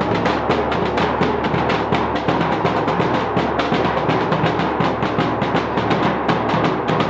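Drums beating a fast, steady rhythm for a dance, many strokes a second.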